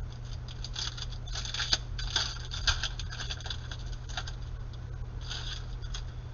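Glossy Panini Prizm basketball trading cards being slid and flipped through the hands: irregular clusters of quick papery ticks and swishes over a low steady hum.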